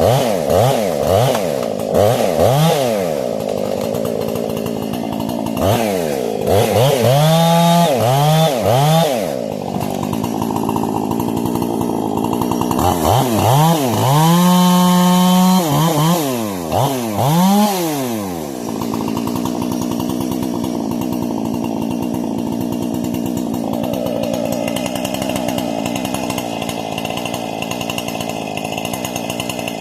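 Husqvarna 460 two-stroke chainsaw, muffler-modded and with a modified carburetor, revved in repeated quick throttle blips and held at high revs for about a second near the middle, then settling to a steady idle about two-thirds of the way through. The saw is being run in on its fourth tank of fuel.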